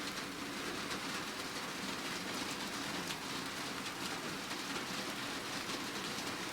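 Steady rain with a dense patter of drops.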